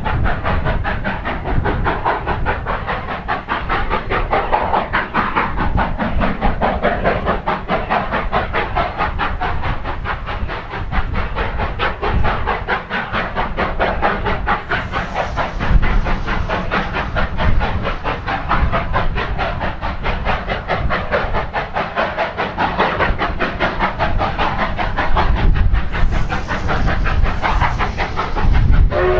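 Narrow-gauge steam locomotive working a train, its exhaust beating fast and evenly over the hiss of steam.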